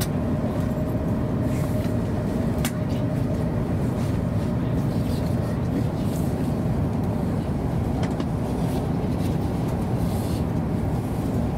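Hokuriku Shinkansen running noise heard inside the passenger cabin: a steady low rumble of the train travelling along the line, with an occasional light click.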